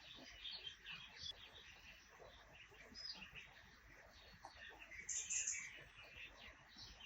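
Small birds chirping: many short, high chirps scattered and overlapping, faint against a low background hiss.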